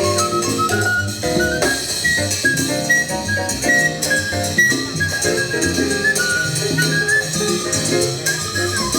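Latin jazz ensemble playing live: a high melody line over chords, bass and drum kit in a steady groove.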